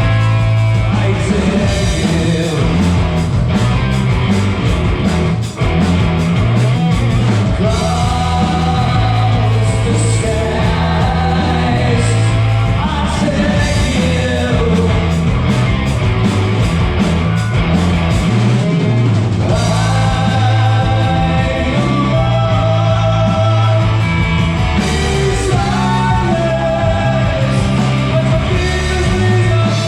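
Live rock band playing a song, a singer's voice carried over guitar, bass and drums, with a brief drop in level about five seconds in.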